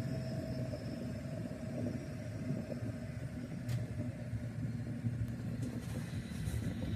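A road vehicle running steadily while driving, a low engine hum with road noise, and one brief tick about halfway through.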